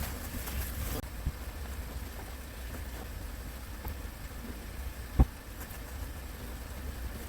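Pop-up tent being handled and folded: fabric rustling in the first second over a steady low rumble, a small click, then one sharp knock about five seconds in as the frame is worked.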